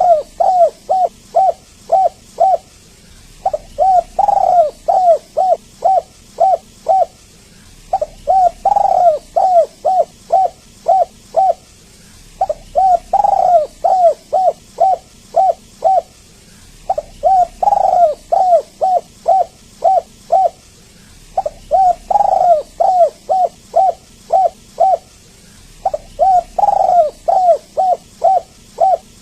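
Spotted dove (tekukur/derkuku) cooing in repeated phrases about every four and a half seconds, six times over. Each phrase is one drawn-out coo followed by a quick run of about eight short coos.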